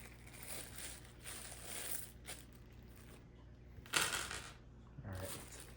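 Plastic parts bag rustling and crinkling as it is handled, with one short louder crinkle about four seconds in.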